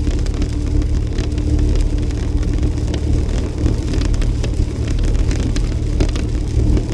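Jeep driving on a snowy road: a steady low road-and-engine rumble with a constant hum, and scattered light ticks over it.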